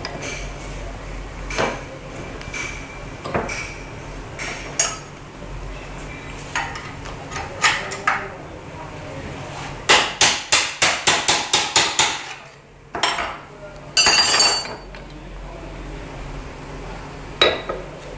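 Metal tools knocking and clinking while a motorcycle's rear Öhlins shock absorber is worked on. About halfway through comes a quick run of about ten hammer-like strikes. A short noisy burst follows a couple of seconds later.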